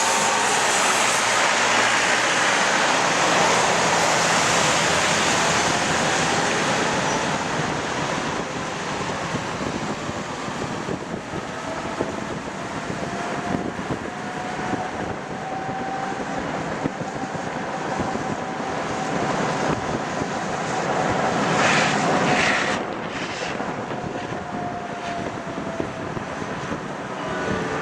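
Tram running on its rails, heard from aboard: a steady rumble and hiss of wheels and car body, with a faint motor whine that slowly rises and then falls in pitch. A few short bursts of hiss come about three-quarters of the way through.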